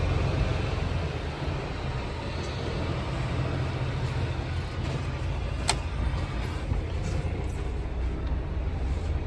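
Semi-truck tractor's diesel engine running steadily at low revs, a deep, even rumble, with a single sharp click a little past halfway.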